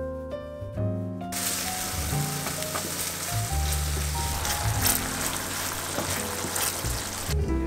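Food frying in hot oil in a pan, a steady sizzle with scattered pops, starting about a second in and cutting off shortly before the end, over piano background music.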